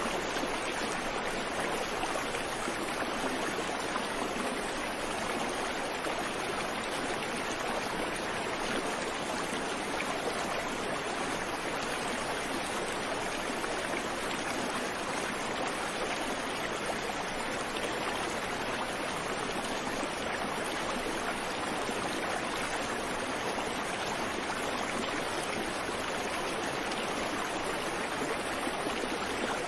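Creek water flowing over rocks: a steady rushing and babbling with no birds.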